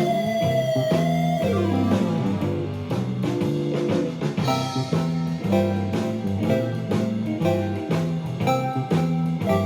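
ThumbJam app's 'square clean' synth tone played as a lead an octave up over a blues backing track: a held note with vibrato that slides down in pitch about a second and a half in, followed by a run of shorter notes.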